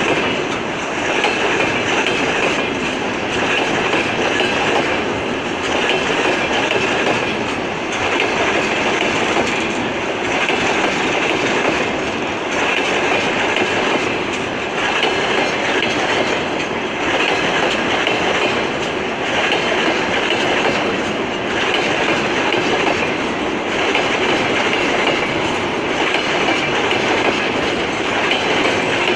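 Tank wagons of a freight train rolling past, steel wheels clacking over the rail joints. The noise swells and dips regularly about every two seconds as each wagon goes by.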